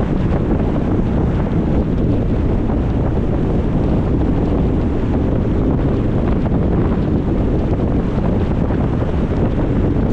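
Wind rushing over the microphone of a moving car, a steady low rumble without a break.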